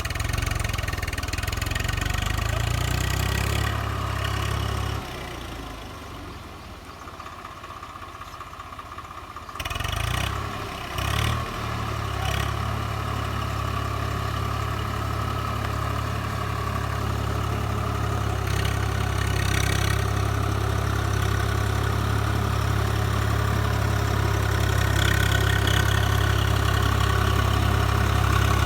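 Swaraj 744 FE tractor's three-cylinder diesel engine running. Its low hum drops away for a few seconds, comes back sharply about ten seconds in with a few uneven strokes, then runs steadily and grows a little louder near the end.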